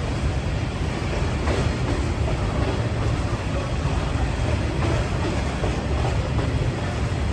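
Freight train rolling past, with a steady low rumble of its wagons' wheels on the rails and a few faint clicks.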